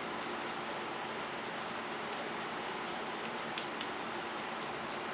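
Two-part epoxy being stirred in a small cup: faint, quick scraping and ticking over a steady background hiss, with one sharper click about three and a half seconds in.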